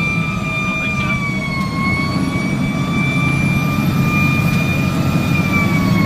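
Fire engine siren held at a high, steady pitch that wavers slowly, then starts to fall near the end, over the heavy rumble of the truck's engine.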